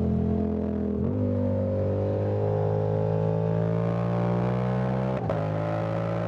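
Yamaha Tracer 7's CP2 parallel-twin engine running steadily under way, its pitch creeping slightly upward, with a brief break in the note about five seconds in.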